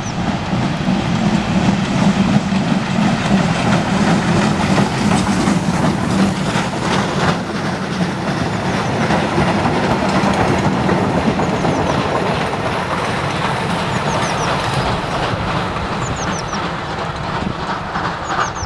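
A train running past steadily, its wheels clattering over the rail joints.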